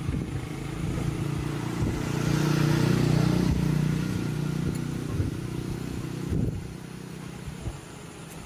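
Small motorcycle engine running steadily, getting louder for a couple of seconds around the middle, then dropping back to a lower level a little after six seconds in.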